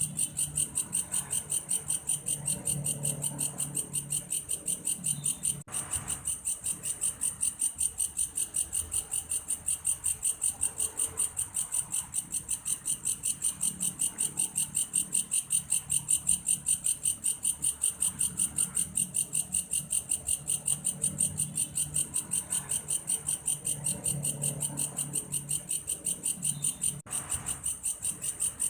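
Belalang kayu, an orthopteran insect, calling: a steady, cricket-like run of rapid, evenly spaced pulses that goes on without a break. A faint low warble underneath swells and fades every few seconds.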